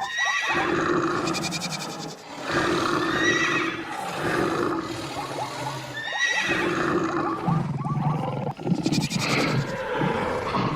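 A string of animal calls, pitched cries one after another, a new call starting every two seconds or so.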